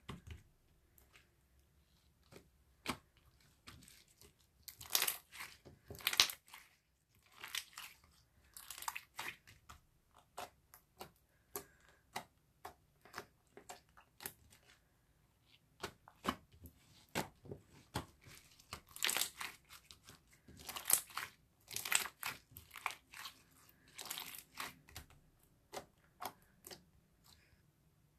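Irregular crinkling and crunching sounds, close up, in quick clusters of sharp crackles with short pauses between them.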